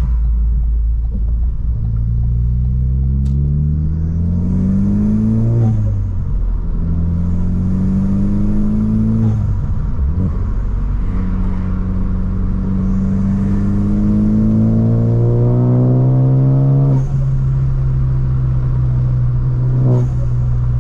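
Ford Focus ST's turbocharged four-cylinder engine accelerating through the gears, its pitch rising and dropping back three times as it is shifted up. There are no exhaust pops or burbles, although the tune is meant to give them.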